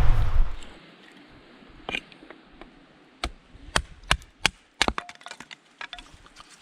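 A loud rushing noise stops about half a second in. It is followed by a dozen or so sharp, irregular wooden snaps and cracks.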